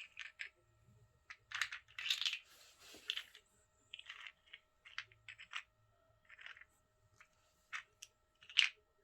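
Small tokens standing in for stones being set down one by one on a tabletop, a series of irregular clicks and light clatters.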